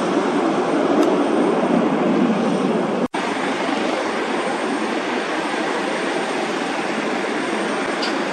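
Steady jet roar from an Airbus KC-30B tanker's engines after take-off, with a very brief dropout in the sound about three seconds in.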